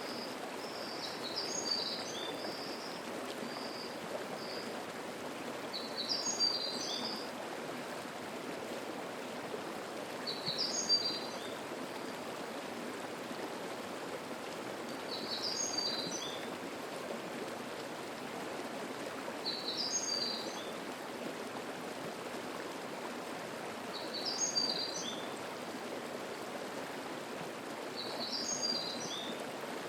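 Steady rushing of a mountain stream, with a songbird repeating a short, high song phrase about every four and a half seconds, seven times in all.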